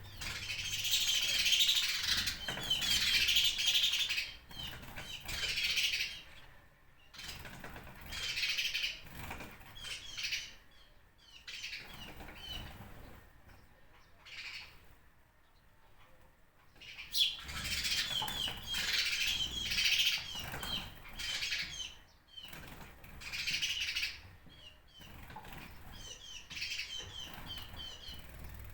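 Many small birds chirping together in bouts of rapid, high chirps and chatter that swell and die away every few seconds.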